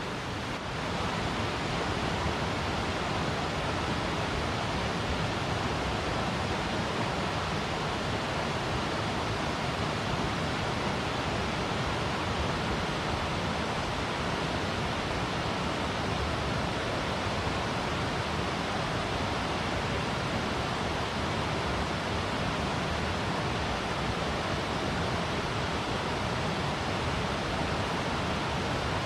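Steady rushing of water in a small mountain stream, an even, unbroken noise with no change in level.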